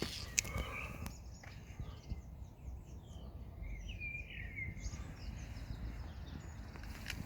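Birds chirping in short repeated calls over a steady low background noise.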